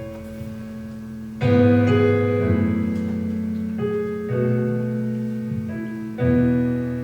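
Piano playing slow, sustained chords as the introduction to a hymn, with new chords struck about one and a half, four and a half and six seconds in, each ringing and fading.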